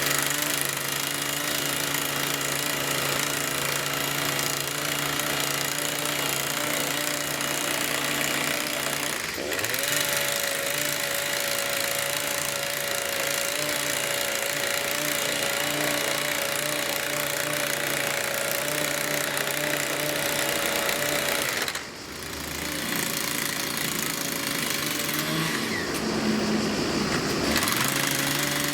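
Colmar excavator's diesel engine and hydraulics running steadily at working revs, with a bright rattling hiss over the engine note. The engine note steps up about nine seconds in, dips briefly a little past twenty seconds, and shifts again near the end.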